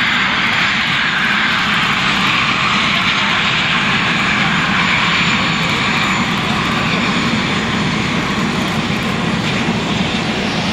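CASA C-101 jet trainers' Garrett TFE731 turbofan engines running, a steady loud rush with a faint high whine that fades about halfway through.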